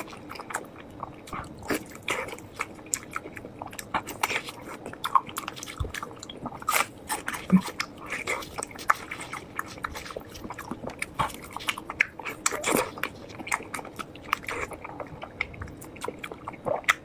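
A person chewing stewed pork close to the microphone, with many quick, irregular mouth smacks and clicks.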